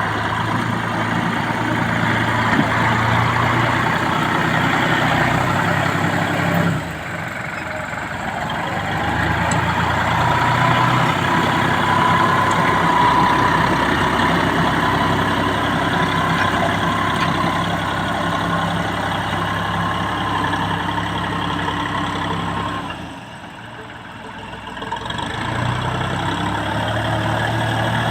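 Massey Ferguson MF4707 tractor's diesel engine running steadily. It dips in level about seven seconds in and again, more deeply, near the end.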